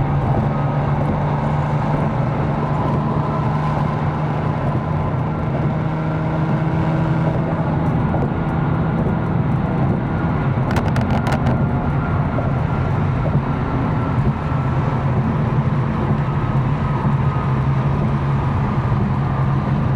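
Tuned 750 hp BMW M4's twin-turbo straight-six droning steadily at a constant cruise, with tyre and road noise underneath and no revving. A brief cluster of sharp clicks comes about eleven seconds in.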